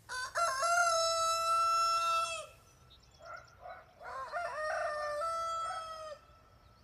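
Rooster crowing twice, two long held cock-a-doodle-doo calls, with a few short clucks between them.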